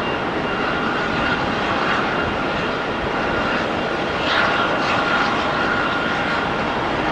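Jet airliner engines running with a steady rushing noise and a faint high whine. A brief louder swell comes about four seconds in.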